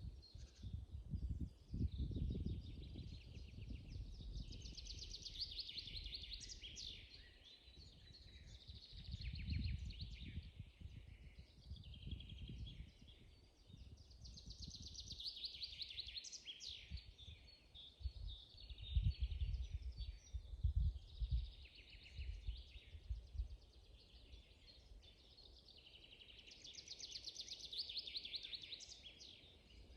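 Songbirds singing in a spring forest, one bird after another in quick trilled phrases of rapidly repeated notes. A low rumble comes and goes several times and is loudest a little after halfway.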